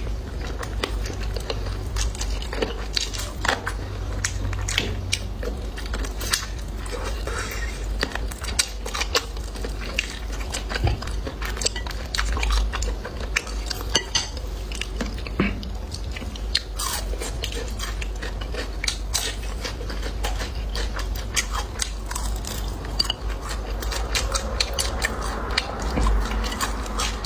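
Close-up eating sounds: biting and chewing braised pig tail, with many short clicks of utensils against dishes.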